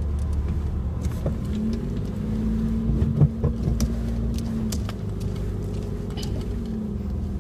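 Car engine and road noise heard from inside the cabin while driving: a steady low rumble, with the engine note rising about a second and a half in and dropping back a few seconds later. A brief knock sounds about three seconds in.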